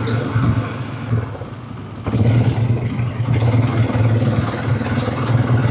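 Quad bike engine running under way, easing off for about a second and picking up again about two seconds in.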